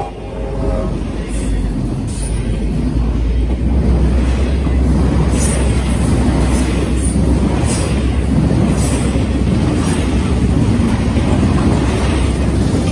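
Double-stack intermodal freight train rolling past at a grade crossing: a loud, steady rumble of container well cars on the rails, with short metallic ticks every second or so.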